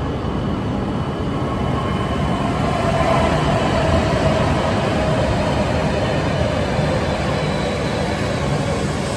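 A Shinkansen bullet train running alongside the platform: a steady rumble with a faint whine that slowly falls in pitch, a little louder a few seconds in.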